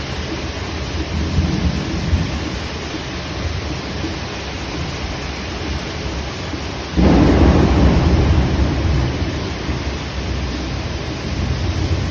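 Steady heavy rain, with a sudden loud rumble of thunder about seven seconds in that slowly dies away.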